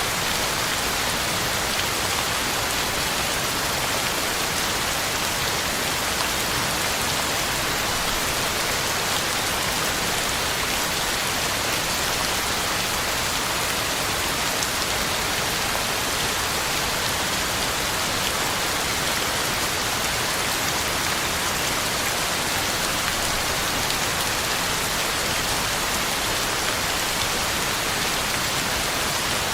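Heavy rain falling steadily on the ground and on leaves, a constant even hiss with no let-up.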